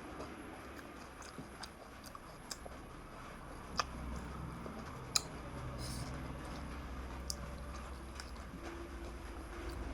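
A person chewing and crunching a crisp fuchka (panipuri) shell, with two sharp crunches near the middle. A low background rumble builds from about four seconds in.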